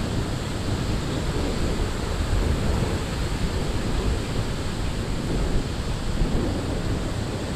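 Ocean surf washing steadily on a beach, with wind buffeting the microphone in a jagged low rumble.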